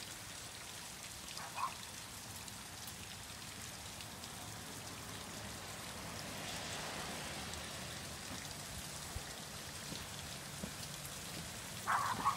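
Steady rain falling, an even hiss. There is one short sharper sound about a second and a half in and a couple more near the end.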